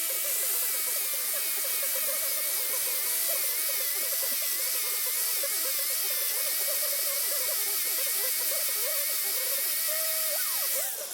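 A power tool running steadily with a loud, even hiss, cutting off shortly before the end. Radio music plays faintly underneath.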